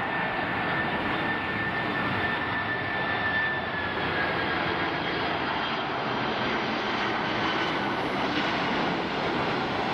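Jet engines of a Boeing 767-300ER airliner: a steady rushing noise with a thin whine that slowly falls in pitch.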